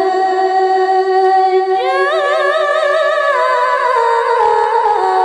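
A woman's high, clear voice in Quran recitation (tilawah), holding one long melismatic note with vibrato on a single word. About two seconds in the melody climbs to a higher pitch with rapid ornaments, then steps slowly back down.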